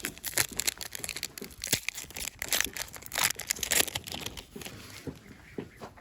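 Foil booster-pack wrapper being crinkled and torn open: a dense run of sharp, irregular crinkles that thins out after about four and a half seconds.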